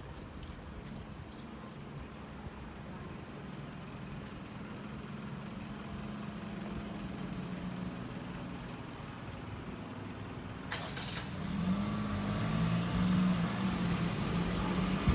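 A vehicle running with a low, steady hum that grows louder in the last few seconds, with a sharp click a little before the rise.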